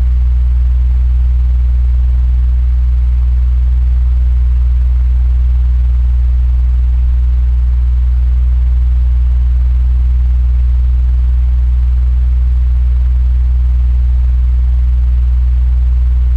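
Electric fan running steadily, a deep even hum with a faint airy hiss over it.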